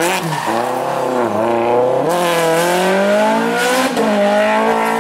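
Rally car engine revving hard as it accelerates, its pitch climbing through each gear and dropping sharply at gear changes about two and four seconds in.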